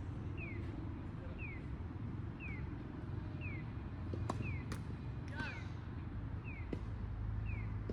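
A short falling chirp repeating evenly about once a second over a steady low rumble. A few sharp knocks, like tennis balls being struck, come about halfway through.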